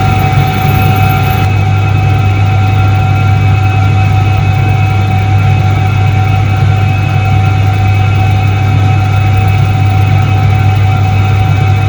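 1978 Soviet Iset-3 washing machine running steadily: an even electric-motor drone with a deep hum and a thin steady whine above it, unchanging throughout.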